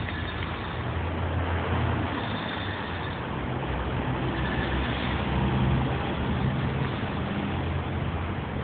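A motor vehicle's engine running at low speed, its low hum shifting slightly in pitch, over steady road noise.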